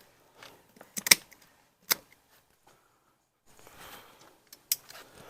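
A few sharp clicks: two close together about a second in, one at about two seconds, and a last one near the end.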